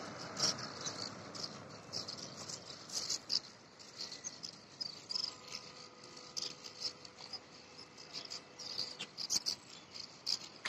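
Small birds chirping and twittering: many quick, high, irregular chirps overlapping.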